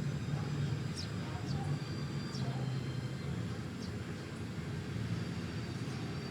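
Small birds chirping: several short, high, falling chirps over a steady low rumble.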